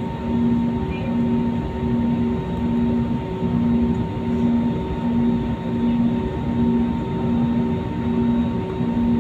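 Jet airliner engine and cabin noise heard from inside the passenger cabin: a steady dense drone with a faint steady whine. A low hum in it pulses evenly, about three swells every two seconds.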